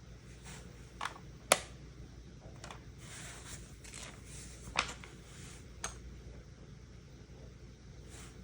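LEGO pieces and plastic packaging being handled on a table: a handful of sharp clicks and taps, the loudest about a second and a half in, with soft rustling around the middle.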